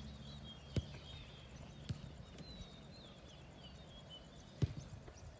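Small birds chirping steadily in the background, with three sharp knocks: one just under a second in, one near two seconds, and a louder one past four and a half seconds.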